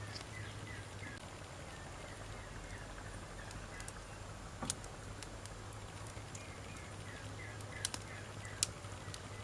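Wood campfire burning with a steady low hiss and scattered crackles, with sharp pops from the burning logs about halfway through and twice near the end.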